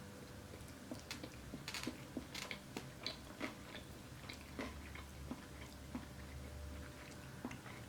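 A person chewing breaded orange chicken, with crisp crunchy crackles over the first three seconds or so, then quieter, softer chewing.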